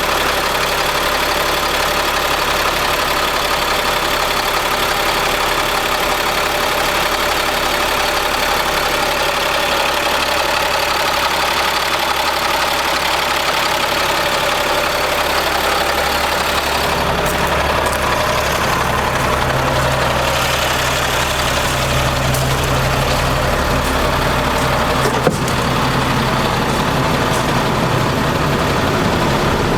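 Caterpillar C7 diesel engine of a Ford F750 truck running steadily at idle. About two-thirds of the way through its low note changes and grows stronger, and a single sharp click sounds a little later.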